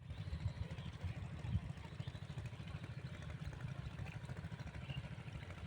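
A 5 hp diesel engine running a water pump, chugging at a steady speed in rapid, even beats.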